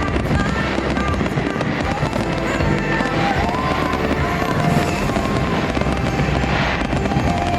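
Fireworks bursting in a dense, continuous barrage over the show's music soundtrack from the park speakers.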